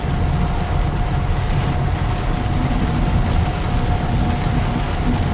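Steady low rumble of a car driving on wet pavement, heard from inside the cabin: engine and tyre noise, with a faint steady high tone over it.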